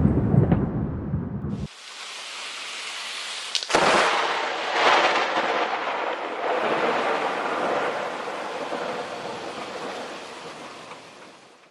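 Thunder rumbling deep and low, cut off short, then steady heavy rain. A sharp thunderclap cracks about four seconds in and rolls on under the rain, slowly fading.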